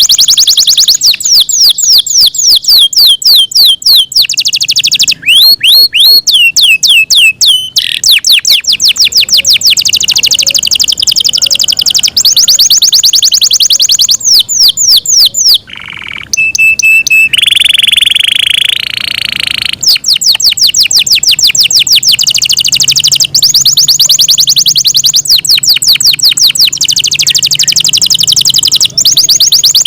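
Yorkshire canary singing loudly, a long song of fast repeated trills and runs of quick downward-sweeping notes. About halfway through there is a short break, then a held note and a harsh buzzing roll before the rapid trills resume.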